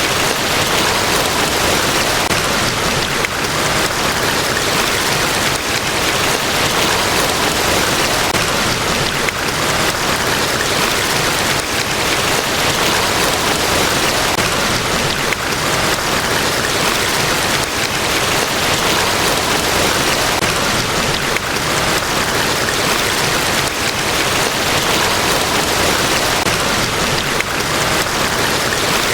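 A large waterfall: a steady, unbroken rush of falling water.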